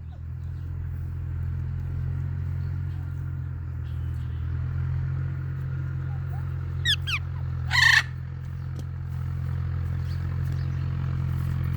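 A parrot gives a few quick whistled chirps, then one loud, harsh squawk, over a steady low mechanical hum like a running motor or engine.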